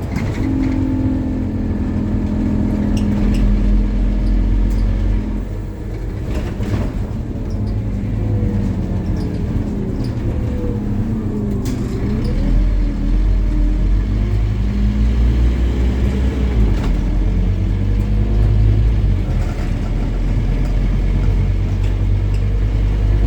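Scania N270UD OmniCity double-decker bus's five-cylinder diesel engine pulling under load, with a deep steady drone. The note drops briefly about five seconds in, as if at a gear change or easing off, then builds again with wavering whining tones over the engine.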